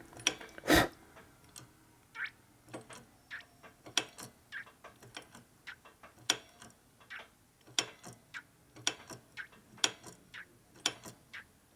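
Light, irregular clicks and ticks from a motorcycle brake master cylinder being worked slowly while the dry brake lines are bled, with one sharper click about a second in.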